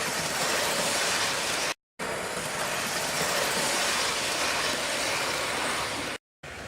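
Model train running on its track: a steady whirring rumble. It cuts off dead twice for a fraction of a second and resumes.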